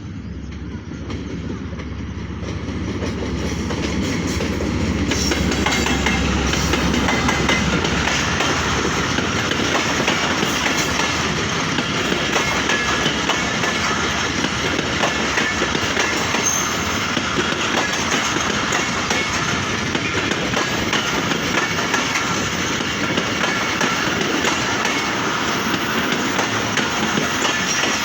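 A train passing close by on the rails, wheels clattering over the track; it grows louder over the first five seconds as it draws near, then runs past steadily.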